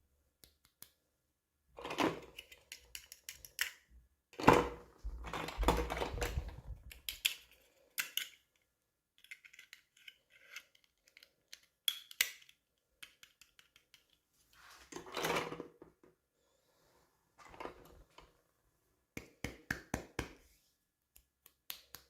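Toy packaging being opened and handled by hand: plastic crinkling and rustling with small clicks, in short bursts separated by pauses.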